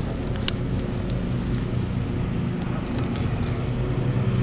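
Steady low engine hum with a few short, sharp clicks.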